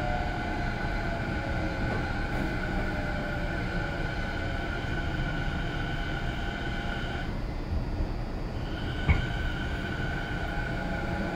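Keio Line electric commuter train running, heard from inside the passenger car: steady rolling and rail noise with a high steady whine. A motor tone falls in pitch over the first couple of seconds, and another rises near the end as the train picks up speed. A single sharp knock comes about nine seconds in.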